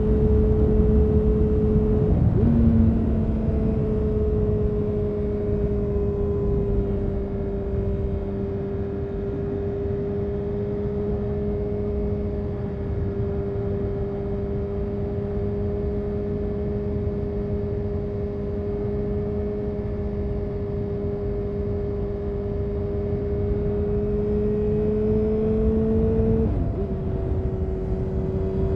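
A 2000 Honda CBR929RR Fireblade's inline-four engine, breathing through a full Erion Racing exhaust, running at a steady cruise under way. The engine note holds nearly level, with a brief break and a step in pitch about two seconds in and again near the end, as gears change.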